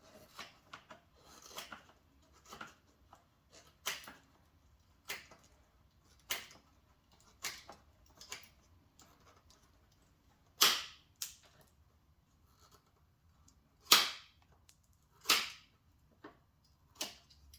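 Hand trimming of a hard plastic fender flare: a series of short, sharp cutting snaps and scrapes, irregularly spaced about a second apart, with a few louder, slightly longer strokes in the second half.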